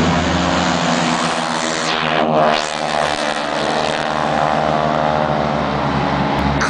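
Radial engines of North American AT-6 Texan propeller aircraft running at display power in a pass. The sound is loudest about two and a half seconds in, with a sweeping hollow tone as they go by.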